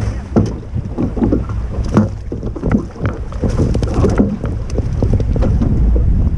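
Strong wind buffeting the action camera's microphone as a steady low rumble, with choppy water splashing and knocking irregularly against the boat's hull.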